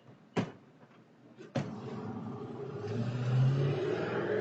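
Two sharp knocks, then a car engine revving as the car accelerates away, louder about three seconds in.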